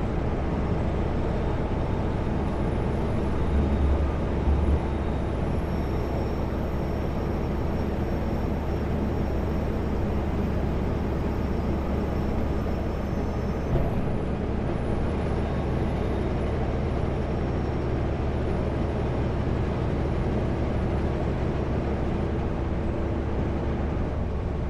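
Kenworth W900L semi truck cruising at highway speed: a steady drone of engine and road noise, with a couple of low thumps about four seconds in.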